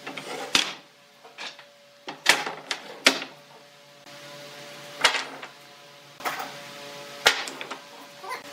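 Irregular sharp knocks and clatters, about six over several seconds, over a faint steady hum.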